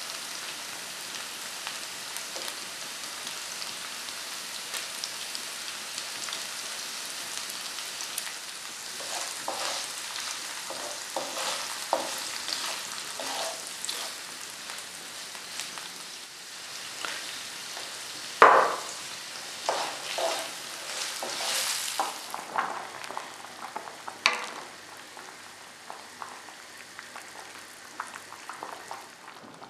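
Crumbled sausage meat frying with onion in oil in a nonstick pan, a steady sizzle. Through the middle a wooden spoon stirs and scrapes it in a run of short strokes, one of them much louder than the rest.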